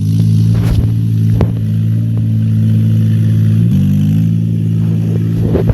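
Tractor engine sound, a steady low drone that drops slightly in pitch about two-thirds of the way through, with a few sharp clicks over it.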